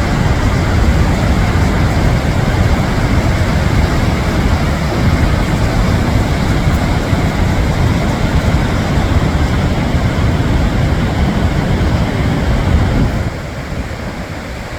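Gullfoss waterfall's steady rushing roar, with wind buffeting the microphone. It drops in level about thirteen seconds in.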